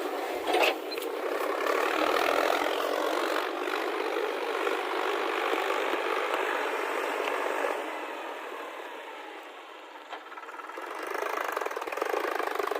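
Heavy diesel engine running steadily, with a sharp knock about half a second in. The engine sound fades for a couple of seconds past the middle and then grows louder again near the end.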